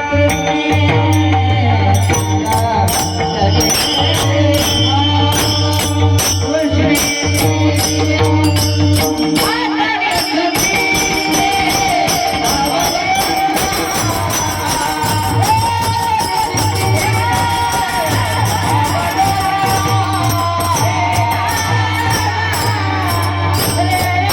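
Devotional singing with instrumental accompaniment: steady held instrumental tones and rhythmic jingling percussion, with a voice singing long, ornamented melodic lines from about ten seconds in.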